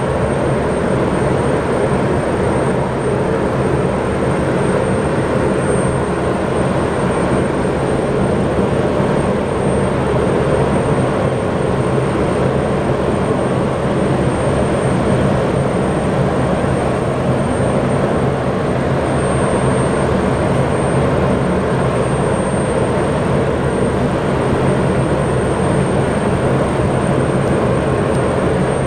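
Aircraft engine noise, a steady rumble with a thin high whine above it, holding level throughout without rising or fading.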